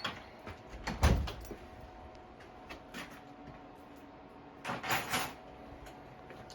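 A door being handled: a heavy thud about a second in, a few light clicks, then a short noisy rattle near the end.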